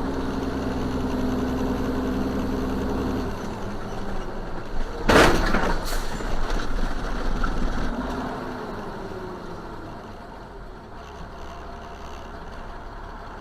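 A vehicle's engine running with a steady hum, then a loud crash about five seconds in, followed by a second, weaker knock under a second later, typical of a collision. The vehicle noise then fades down.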